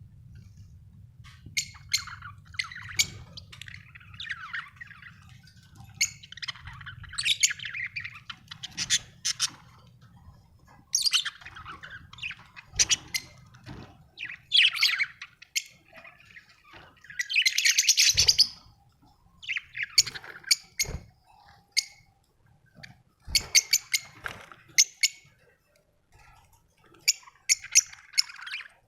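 Budgerigars chirping and warbling in irregular bursts of quick chirps, with short squawks between.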